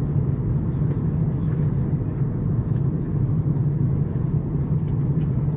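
Steady low rumble of cabin noise in an Airbus A330-900neo airliner in flight, engines and airflow.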